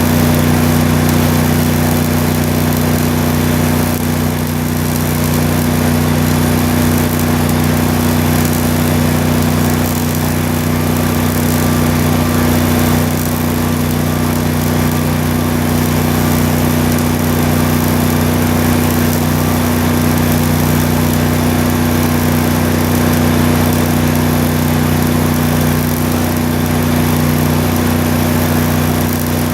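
An engine running steadily at one constant speed, with a continuous hiss over it.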